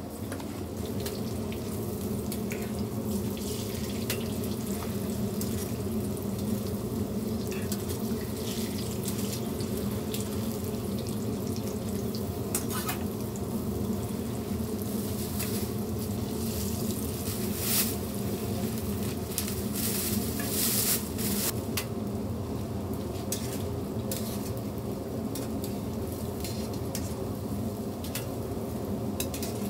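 Hotteok frying in shallow oil on a flat steel griddle: a steady sizzle, with a few sharp clinks of metal spatula and tongs around the middle.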